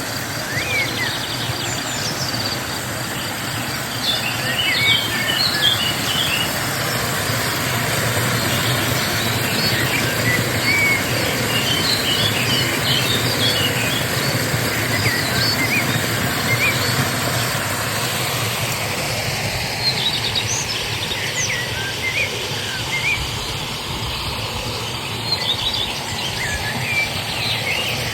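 Steady rush of flowing stream water with birds chirping on top: short high calls that come in clusters and pause between.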